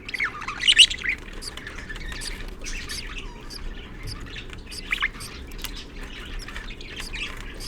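Budgerigar chirping: a loud high call in the first second, then a few brief, fainter chirps.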